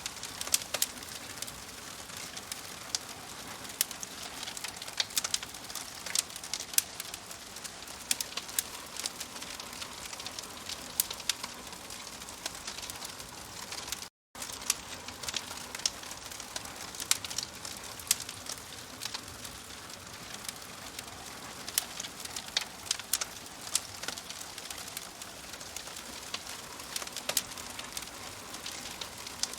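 Wood fire crackling in a fireplace: a steady soft hiss with many irregular sharp pops and snaps. The sound cuts out for a split second about halfway through.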